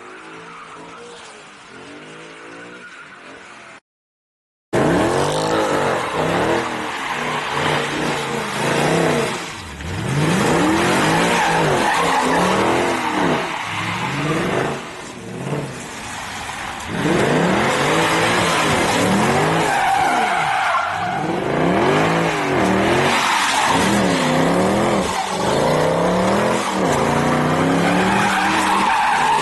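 Mercedes C63 AMG V8 exhaust, revved up and down over and over as the car slides with ESP off, its pitch rising and falling in repeated sweeps. It opens with a quieter, duller stretch of the engine, then a brief break before the loud revving starts.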